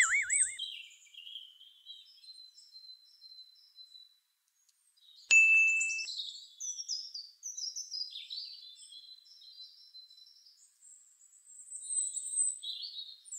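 Small birds chirping and twittering in quick high calls, busiest in the middle. A wobbling tone dies away at the very start, and a short bright ding sounds about five seconds in.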